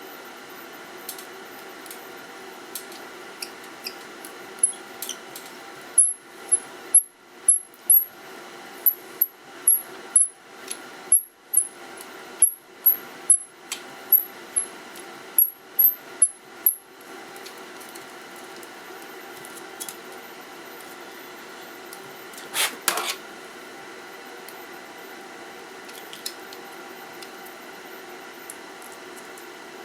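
Light metallic taps, each with a short high ring, about two a second for around ten seconds, followed a few seconds later by one brief scrape.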